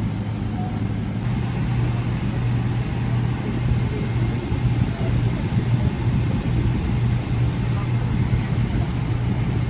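Steady low drone inside a Boeing 777-300ER cabin: the aircraft's engines and air systems, heard through the fuselage as a constant hum over a noisy rumble.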